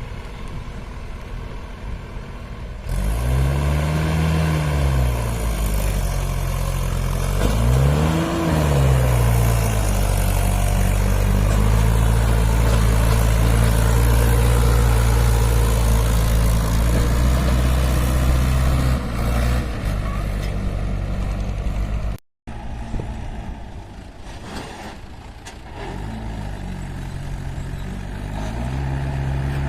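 Mahindra 575 DI tractor's four-cylinder diesel engine revving up and back down twice, then running loud and steady under load. It cuts off abruptly about two-thirds through, comes back lower at idle and revs up again near the end.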